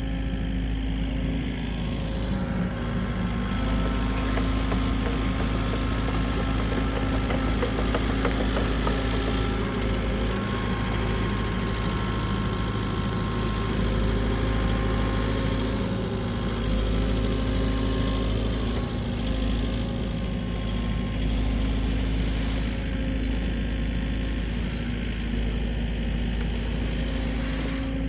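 Engine of a snow-clearing machine running steadily, its pitch shifting slightly a few times.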